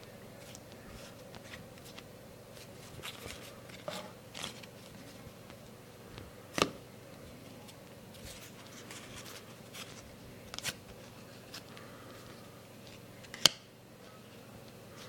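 Trading cards and their packaging being handled: scattered soft rustles and clicks, with a sharper click about halfway through and another, louder one near the end.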